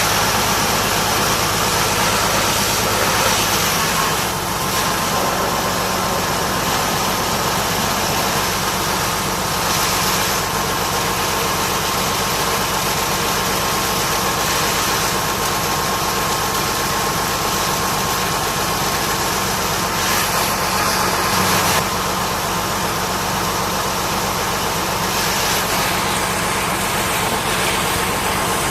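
High-pressure washer spraying water onto a bulldozer, a steady loud hiss over an engine running at idle, swelling briefly now and then as the spray moves.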